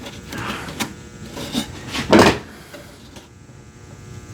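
Wooden boards being shifted and lined up by hand on a workbench: a few short scrapes and knocks, the loudest about two seconds in.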